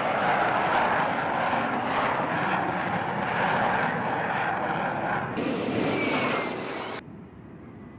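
Aircraft engine running, a dense steady noise with a faint falling whistle about six seconds in. It stops abruptly about seven seconds in, leaving a faint hiss.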